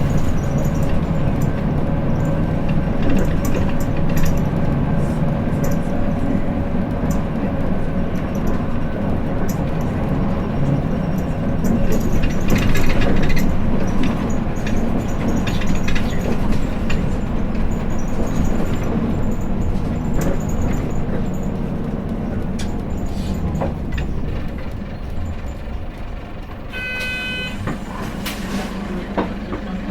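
Hino Blue Ribbon City city bus running, heard from inside the cabin: diesel engine and drivetrain rumble with road noise, easing slightly near the end. Near the end a short electronic tone sounds for about a second, followed by a few clicks.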